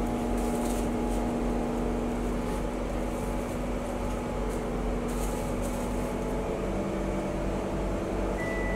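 Steady hum of a stationary MRT train's air conditioning and onboard equipment, heard inside the carriage with the doors open at the platform. A thin, high steady tone comes in near the end.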